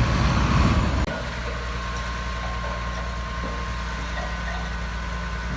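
Heavy diesel engine of earthmoving machinery working loudly, then cut off abruptly about a second in and replaced by a steady, quieter engine idle.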